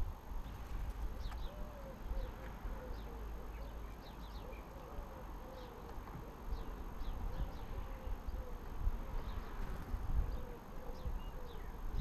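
Small garden birds calling around a feeding spot: scattered short, high chirps throughout, with a low wavering note repeated again and again, over a low steady rumble.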